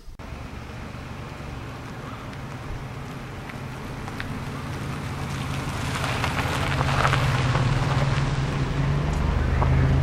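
A car engine running with tyre noise, growing steadily louder as the vehicle comes closer.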